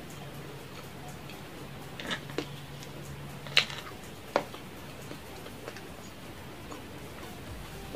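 Close-up eating sounds of a person chewing pizza, with about four sharp mouth clicks or smacks a couple of seconds in, the third the loudest, over a faint steady hum.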